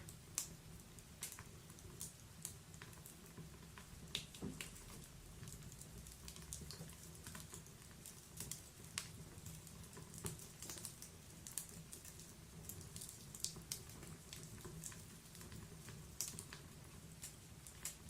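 Wood fire burning in a fireplace, crackling with irregular small pops and snaps over a soft low rumble of the flames.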